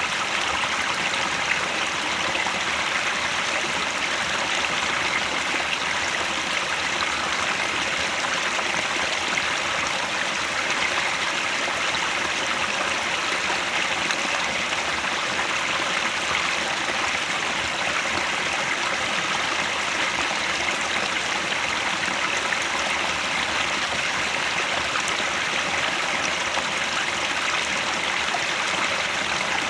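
Headwater stream flowing steadily, an even, unbroken sound of running water.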